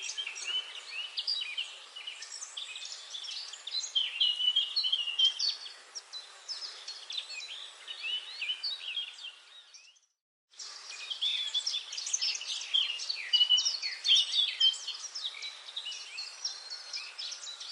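Dense forest dawn-chorus-like mix of many songbirds chirping and trilling at once over a faint hiss. About ten seconds in, the sound drops out completely for half a second, then the chorus resumes.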